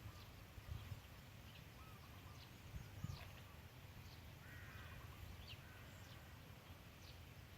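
Quiet open-air background with faint bird calls: repeated short chirps and a few thin high whistles, and a soft low knock about three seconds in.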